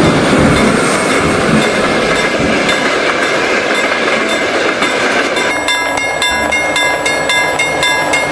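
Train passing, a steady rumble of wheels on the rails. About five and a half seconds in, a rapid, evenly repeating clatter with a ringing edge joins, about three strokes a second.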